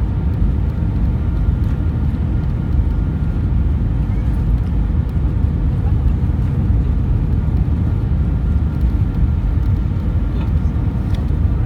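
Steady low rumble of cabin noise inside an Airbus A320, with a faint, thin, steady whine above it.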